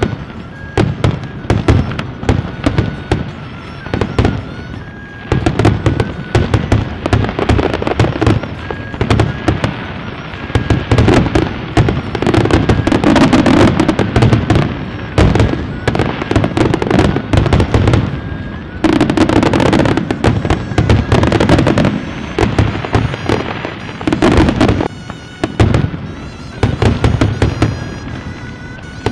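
Fireworks display: a rapid, continuous crackle of many bursts, with two denser, louder volleys about twelve and nineteen seconds in.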